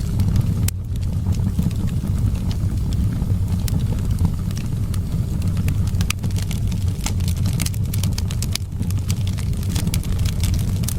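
Wood fire crackling in a fireplace, with irregular sharp pops and snaps over a steady low rumble of wind.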